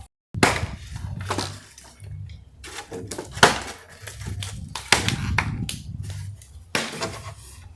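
Pieces of firewood knocking and clattering together as they are handled and stacked for a bonfire: about five sharp knocks spread out, with rustling between them.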